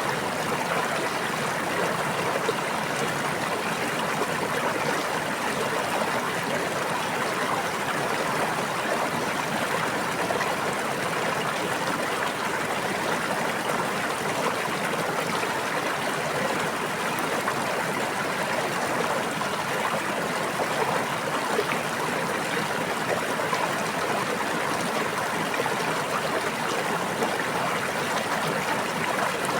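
Stream water flowing, a steady even rush of running water.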